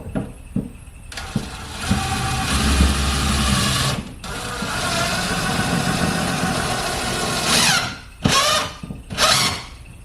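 Power drill driving a screw through thin paneling into the wall. The motor runs twice for about three seconds each, starting about a second in, then gives several short bursts rising in pitch near the end as the screw is snugged down. The screw is struggling to find solid backing to grab.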